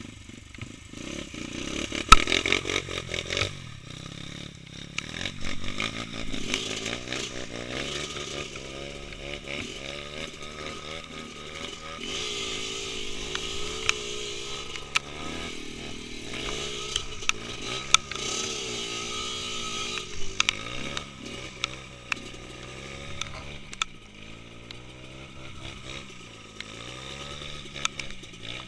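Small underbone motorcycle engine revving up and down under load off-road, its pitch rising and falling again and again, with scattered knocks and clatter and a sharp knock about two seconds in.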